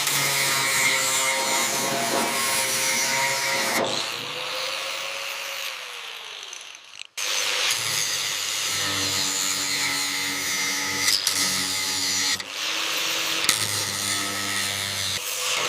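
Power tools running in several short spells, one after another, with a tool winding down in pitch partway through.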